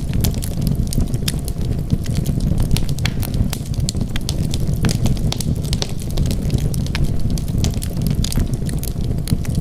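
Wood fire crackling in a fireplace: many small, sharp pops and snaps, irregular and closely spaced, over a steady low rumble.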